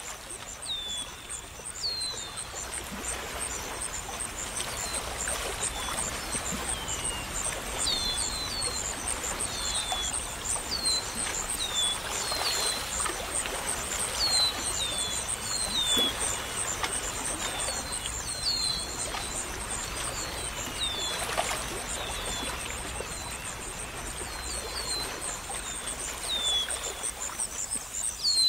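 Outdoor nature ambience: small birds chirping again and again with short falling notes, over a steady high-pitched pulsing trill and a soft hiss.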